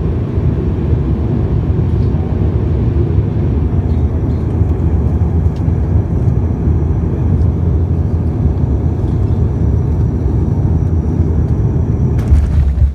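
Airliner cabin noise in flight: a steady, loud, low rumble of engines and airflow, with a brief louder bump near the end.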